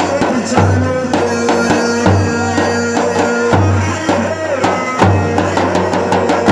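Live Iraqi party music: a melody of held notes over a heavy, repeating bass-drum beat and sharp hand-drum hits.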